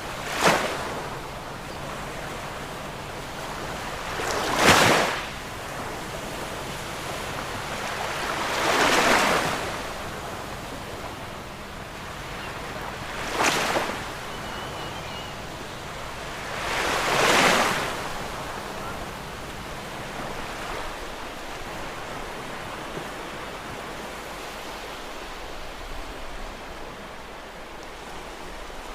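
Ocean surf: waves break five times at roughly four-second intervals over a steady wash of sea noise, and the breaks stop for the last ten seconds or so.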